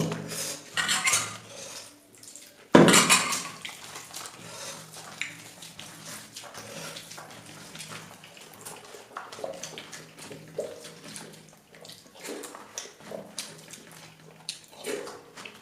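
Eating sounds of a meal: plate and utensil clatter with wet handling of food, two louder noisy bursts near the start and about three seconds in, then smaller clicks and chewing noises.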